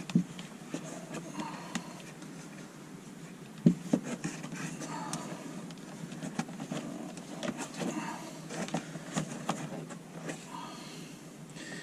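Scattered clicks, taps and rustles of plastic interior trim and a wire being pushed into the headliner, with a sharper knock just after the start and another about four seconds in.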